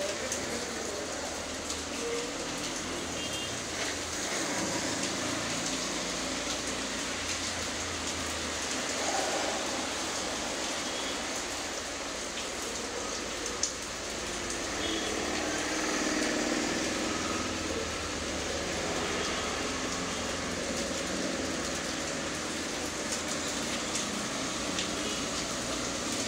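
Steady rain falling on a wet paved courtyard, an even hiss of drops with occasional faint ticks. A low rumble swells and fades about halfway through.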